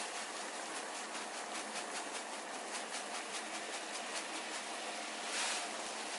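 Water heating in a pot on the stove: a steady hiss with rapid small pops, and a brief louder rush of hiss about five seconds in.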